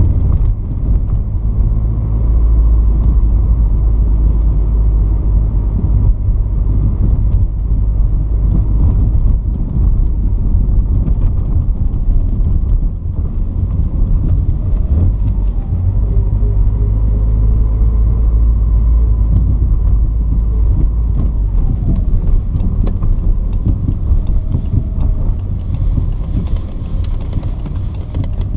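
Porsche 944's 2.5-litre four-cylinder engine running steadily, a deep low rumble with faint higher whines gliding in pitch.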